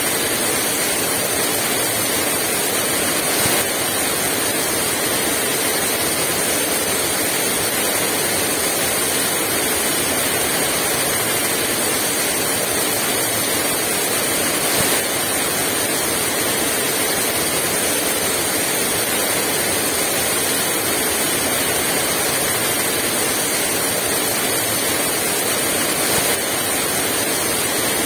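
Very heavy rain falling steadily, a dense even hiss with no wind heard.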